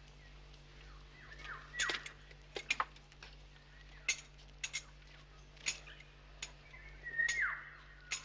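Birds chirping: scattered short, sharp chirps, with a descending whistled call about two seconds in and another near the end.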